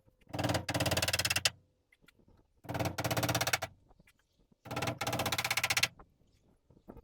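Cordless impact driver running in three short bursts of about a second each, with a fast hammering rattle as it drives screws.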